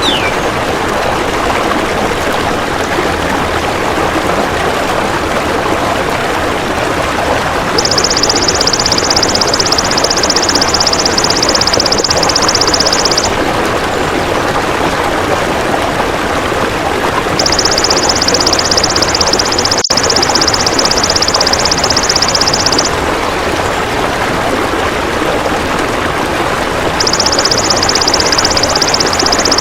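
Golden grasshopper (belalang emas) trilling in three long high buzzes of about five seconds each, starting about 8 seconds in, about 17 seconds in, and near the end. Behind them runs a steady rushing sound like a stream.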